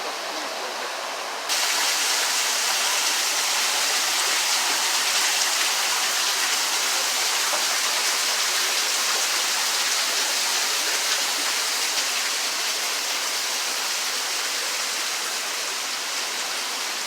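Steady rushing of falling water, a waterfall or creek cascade, growing suddenly louder and brighter about a second and a half in.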